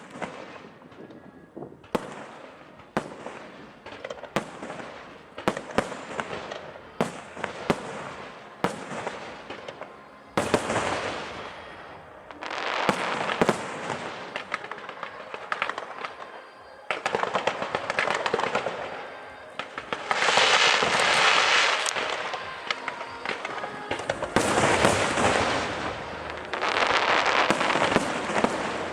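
Aerial fireworks show: a run of sharp bangs from shells bursting overhead, then long stretches of dense crackling from crackle shells through the second half.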